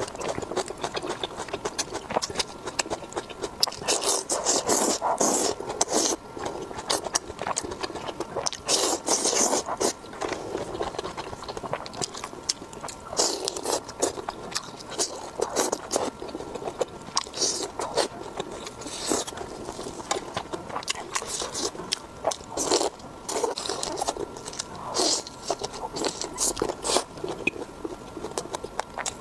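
Close-miked eating: biting and chewing food in irregular bursts of wet, crackly clicks and scrapes, louder every few seconds, over a faint steady high tone.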